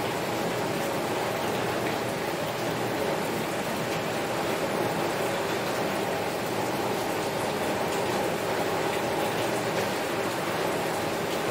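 Heavy rain falling on a window glass: a steady, even hiss of countless drops.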